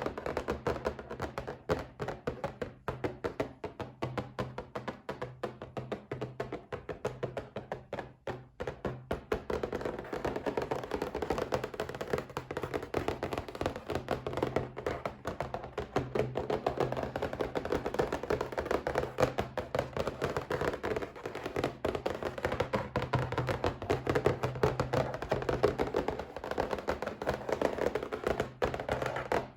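Rapid, continuous tapping on a box, many light taps a second in an unbroken patter, with a faint steady low hum underneath.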